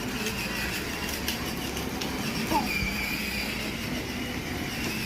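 Motorcycle running steadily, with a high-pitched whine over a low drone.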